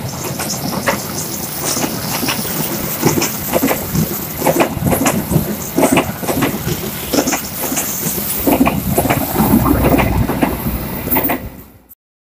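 Passenger train running on the rails, with a steady rumble and irregular sharp knocks and clacks from the wheels over the track. The sound cuts off abruptly near the end.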